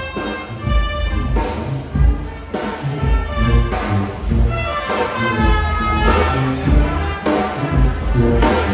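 Brass band playing live: trumpets and trombones carry a melody over a strong low bass pulse.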